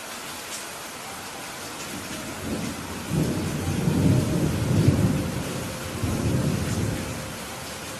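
Steady heavy rain with a roll of thunder that swells about two and a half seconds in, peaks near the middle and fades out before the end.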